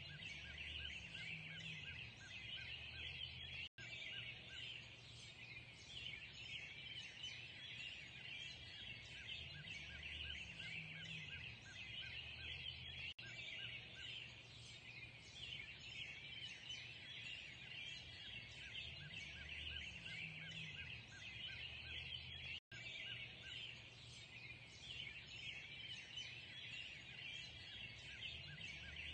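Dawn chorus of many small birds singing and chirping at once in a dense, continuous chatter. The sound cuts out for an instant twice.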